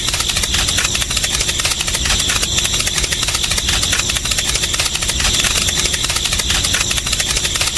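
Tractor engine running steadily at idle, with a rapid, even chugging.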